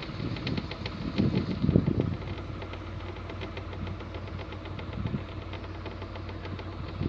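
Canal boat's inboard engine running steadily, with a fast, even ticking over a low hum.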